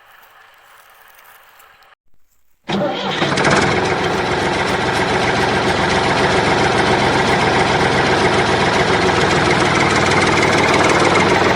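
A vehicle engine starts up abruptly about three seconds in and runs steadily and loudly, then cuts off sharply.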